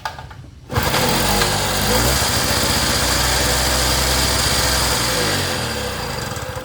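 Gasoline inverter generator's small engine starting on choke: it fires up suddenly, runs for about five seconds, then fades away and stalls. It starts but won't keep running, which the owner puts down to the air-fuel mixture setting and old fuel.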